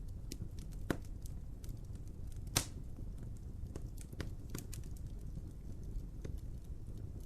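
Wood fire crackling: irregular sharp pops and snaps over a steady low rumble, with one louder pop about two and a half seconds in.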